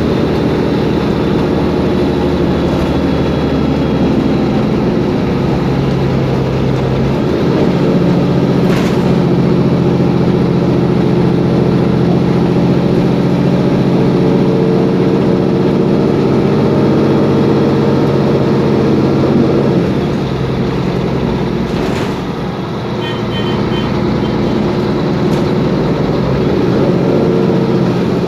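Mercedes-Benz Conecto G articulated bus's OM457LA six-cylinder turbodiesel running under way, its steady engine note shifting in pitch a few times as the bus changes speed. There are a couple of brief knocks, and a short run of faint high beeps comes past two-thirds of the way in.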